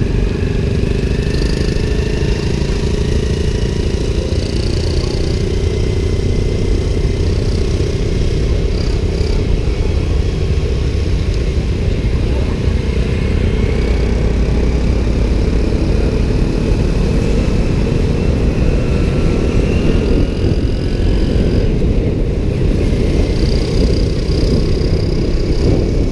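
Riding a motorbike through city traffic: steady engine and road noise with a heavy low rumble, and faint rising and falling engine tones from passing vehicles.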